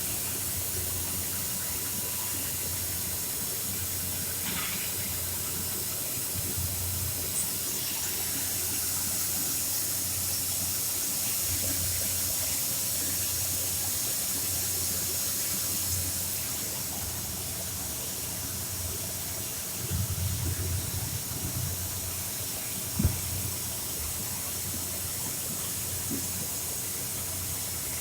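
CNC machine running: a steady hiss over a low hum, with a few light knocks and one sharp click near the end.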